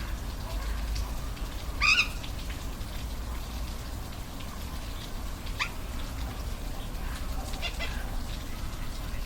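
Steady rush of a waterfall, with short high animal calls rising in pitch heard three times over it, the loudest about two seconds in.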